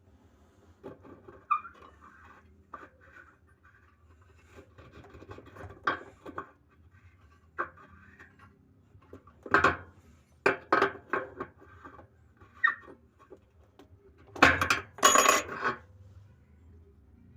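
Metal tools and parts clinking and clanking as they are handled, in irregular clusters, loudest around ten seconds in and again near fifteen seconds.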